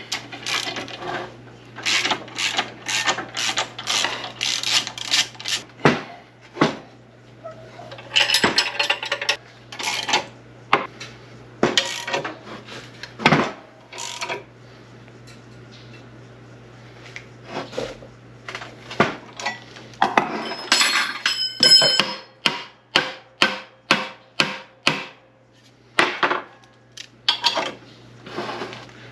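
Hammer blows on steel while a stuck bearing is worked off an SM465 transmission shaft: quick runs of sharp strikes, a bright metallic ringing about two-thirds of the way through, then a steady series of about two blows a second. A steady low hum runs underneath.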